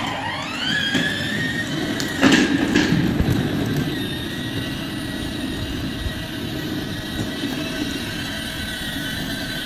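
A motorcycle pulling away. A high motor whine rises over about a second, then holds steady over road and wind rumble. There are two sharp knocks a little over two seconds in.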